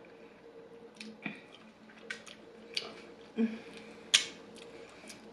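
Close-up eating sounds: chewing with about half a dozen short wet smacks and clicks of the lips and mouth, the sharpest about four seconds in, over a faint steady hum.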